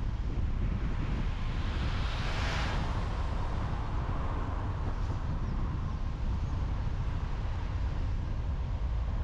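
Road noise of a car driving on a highway: a steady low rumble of tyres and engine, with a hiss that swells and fades about two to three seconds in.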